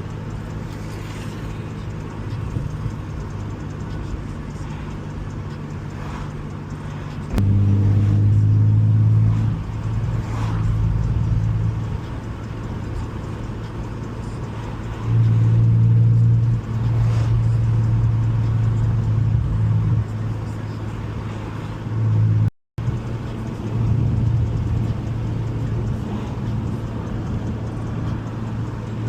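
2017 Ford Mustang's 3.7-litre V6 under way with an MBRP exhaust and H-pipe, heard from the driver's seat: a steady low exhaust drone. It swells louder for a few seconds about seven seconds in and again about halfway through, and cuts out for a moment near the end.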